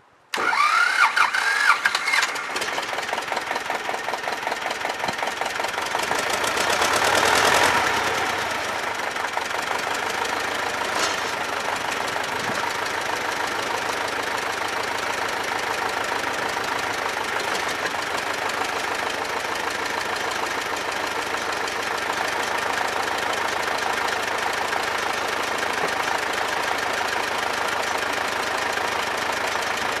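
T-25 tractor's two-cylinder air-cooled diesel engine starting up, with a short rising whine as it catches, then running up briefly a few seconds in before settling to a steady knocking idle.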